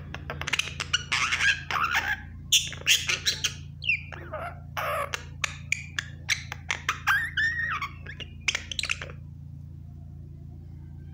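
Pet myna calling in a quick run of squawks, clicks and whistles for about nine seconds, then falling silent. A steady low hum runs underneath.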